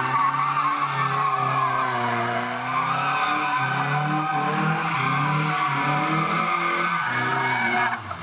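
Rally car engine running and being blipped, its pitch dipping and rising slightly, then cutting off about eight seconds in.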